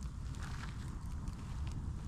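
Campfire burning: a steady low rumble with a few faint crackles and pops, a small cluster of them about half a second in.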